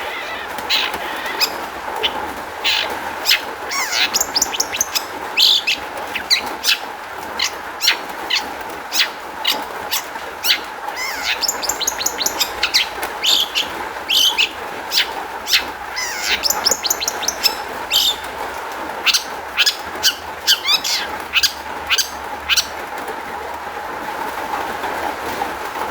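Long-tailed shrike (cendet) singing a fast, varied run of sharp chirps and short calls over a steady background haze, with a brief lull of a couple of seconds near the end.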